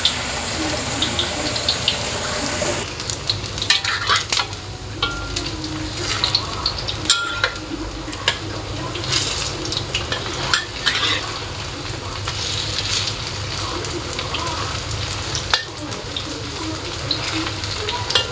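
Vegetable fritters deep-frying in a wok of hot oil, a steady sizzle. From about three seconds in, a metal spatula scrapes and clicks against the wok.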